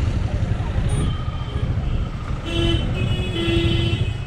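Steady low wind and engine rumble from riding a motorcycle in traffic. A vehicle horn toots about two and a half seconds in: a short honk, then a longer one.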